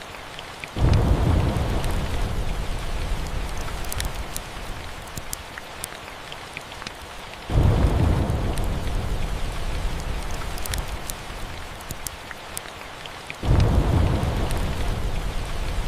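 Steady rain with three rolls of thunder. Each roll starts suddenly and deep, then rumbles away over several seconds: the first about a second in, the next midway and the last near the end. Scattered sharp clicks run throughout.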